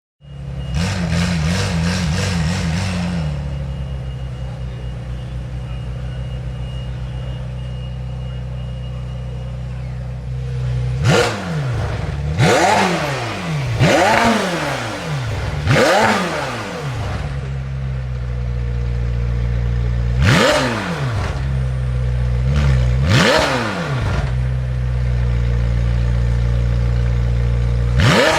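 McLaren Senna's twin-turbo V8 runs at a raised, wavering idle for the first few seconds, then settles to a steady idle. From about a third of the way in it is blipped sharply about seven times, each rev rising and falling quickly.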